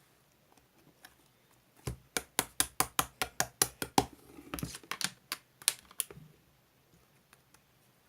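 A quick run of sharp clicks, about five a second, starting about two seconds in, thinning to a few scattered clicks and stopping about six seconds in.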